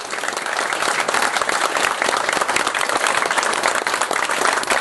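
A group of people applauding, the clapping swelling over the first second and then holding steady.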